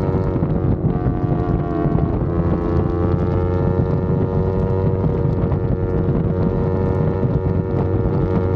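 Yamaha R25's parallel-twin engine running at steady revs under way, its pitch rising slightly about three seconds in, with wind rushing over the microphone.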